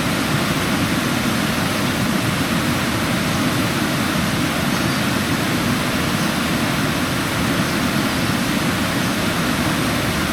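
River water rushing steadily over rocks and small cascades.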